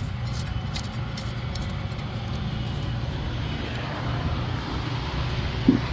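Steady low rumble of a car engine idling, the Audi's 2.0 TFSI turbocharged four-cylinder heard under the open hood, with a few light plastic clicks near the start.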